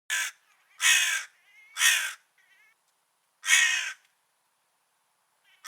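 A crow cawing: four loud caws spaced about a second apart, with fainter calls between them and a fifth caw starting at the very end.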